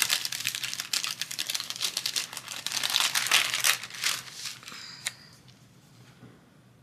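Crinkling and rustling of planner paper and sticker sheets being handled, dying away about four seconds in, with one sharp click near five seconds.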